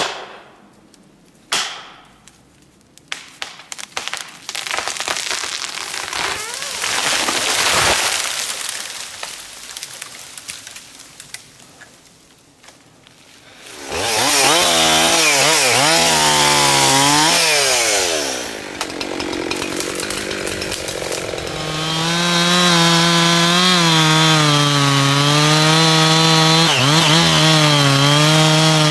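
Gasoline chainsaw engine starting about halfway through, revving up and down a few times, then running steadily at high speed. Before it there are two sharp knocks and a long noise that swells and fades away.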